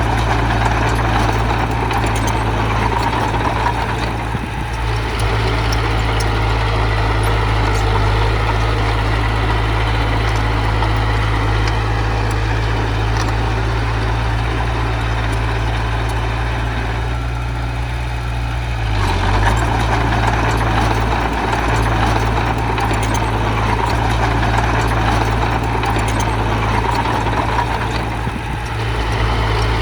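Diesel engine of heavy earthmoving machinery running steadily under working load, its note easing for a second or two a little past the middle and then picking up again.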